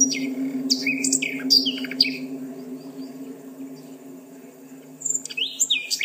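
Songbird chirping: a few sharp chirps in the first two seconds, then a quick run of short, falling chirps starting about five seconds in, over a steady low hum.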